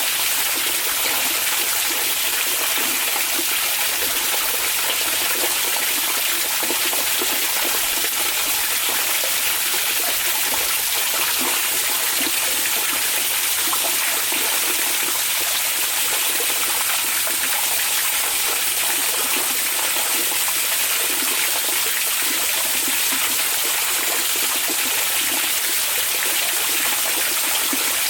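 Hot spring water running and splashing steadily, an even rushing wash with no change in level.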